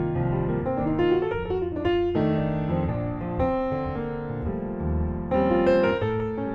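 Solo piano playing a slow jazz ballad, with full sustained chords under a melody.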